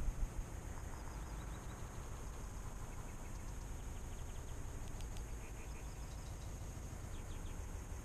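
Quiet garden ambience: a steady low rumble with a few faint, high bird chirps, including three quick ones about five seconds in.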